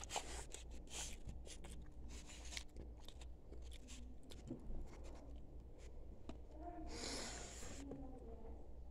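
Faint chewing with many small mouth clicks and taps, and a short hiss about seven seconds in.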